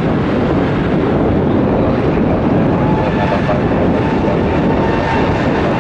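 Airbus A320neo jet airliner taking off, its engines at take-off thrust making a loud, steady rushing jet noise.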